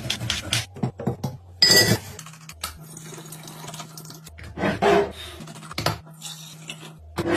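Containers and dishes being handled and set down on a shelf: a series of knocks with a short ringing glassy clink about two seconds in, and more knocks later on.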